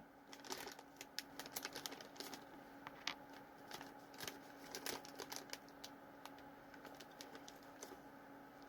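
Faint chewing of jelly beans: irregular small mouth clicks and smacks, thicker in the first half and thinning out toward the end, over a faint steady hum.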